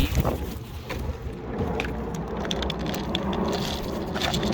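Scattered clicks and crackles over a low rumble, with a louder jumble in the first half-second: wild cockatoos crunching and cracking their feed close to the microphone.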